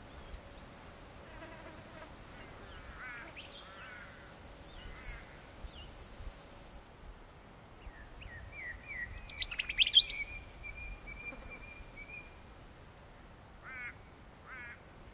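Wild birds calling: scattered soft chirps, then a louder burst of notes about nine seconds in that runs into a held whistled note, and two short trills near the end.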